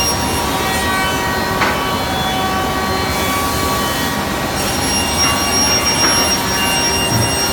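Biesse Rover A five-axis CNC router running, its spindle giving a steady high whine of several tones over a steady hiss. The tones shift in pitch a few times, and the highest drops out about three seconds in and returns a second and a half later.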